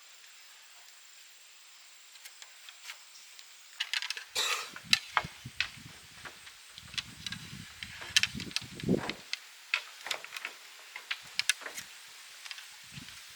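Faint hiss, then from about four seconds in a run of irregular sharp knocks, clicks and rustling, with a few dull thumps in the middle: handling noise from hands-on work.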